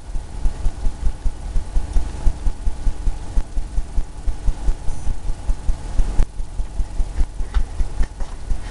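Paintbrush being dabbed and stroked against a stretched canvas, a quick irregular run of dull low thumps, several a second.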